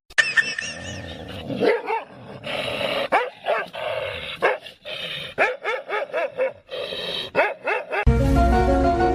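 A dog barking and yipping over and over in short, pitched calls, with a few longer rougher ones in between.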